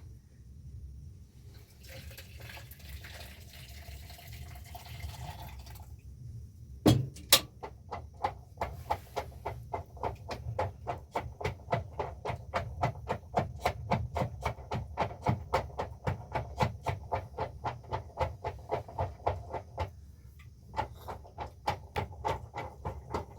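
Liquid pouring for several seconds, then two sharp knocks and a steady rhythmic beating of about three to four strokes a second, which pauses briefly near the end and starts again.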